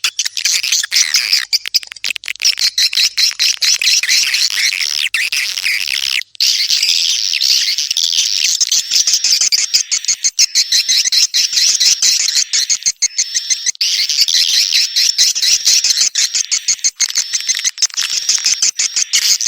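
Swiftlets (walet) calling: a dense, unbroken mass of high, rapid chittering twitters and clicks. This is the kind of swiftlet call played as a lure to draw the birds into swiftlet nesting houses. The calls break off for a moment about six seconds in.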